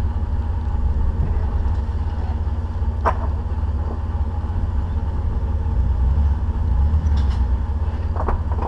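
Off-road Jeep's engine running with a steady low rumble, with a sharp knock about three seconds in and another near the end.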